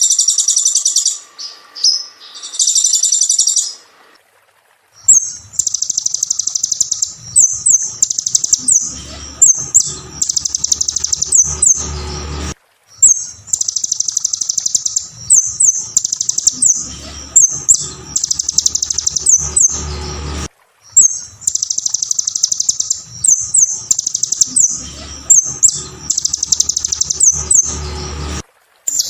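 Sunbird known as kolibri ninja (konin) singing: loud, high-pitched rapid trills broken by sharp chips. The song comes in three long, near-identical phrases separated by brief pauses.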